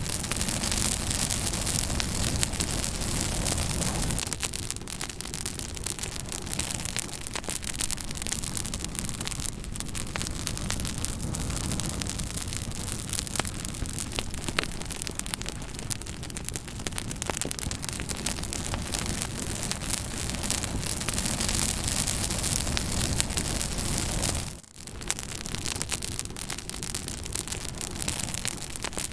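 Wood fire crackling, with a steady hiss and dense, irregular pops and snaps. The sound dips out for a moment a little before the end.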